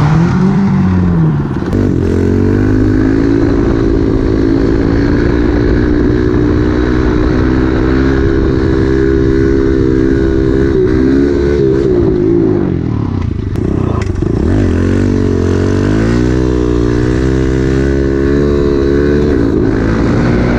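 Small single-cylinder pit bike engine running, mostly steady, with its pitch falling off and rising again a couple of times as the throttle changes. Its exhaust has a freshly JB-welded pipe.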